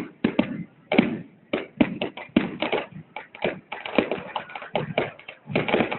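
Fireworks crackling: many sharp, irregular pops and cracks, several a second.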